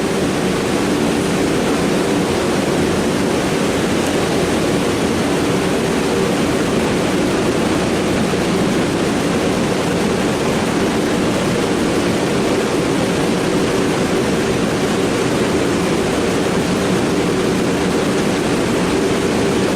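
Forced-air shop heater running: a loud, even rushing noise with a steady low hum underneath that doesn't change.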